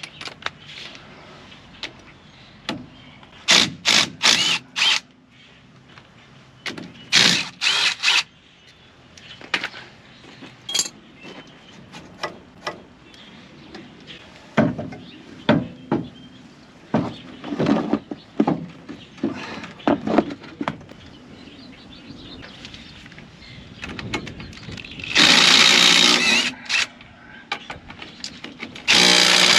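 Metal hand tools clanking and rattling at a truck's front wheel. About 25 seconds in a pneumatic impact wrench hammers for about two seconds, and it starts again near the end.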